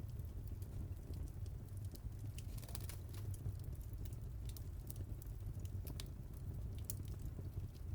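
Fire in a fireplace crackling: scattered sharp pops and snaps over a low steady rumble of the flames, with a flurry of crackles about three seconds in.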